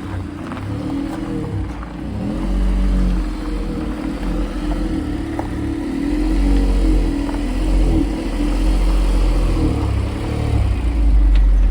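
Car engine running under load, its revs rising and falling repeatedly as it is driven hard.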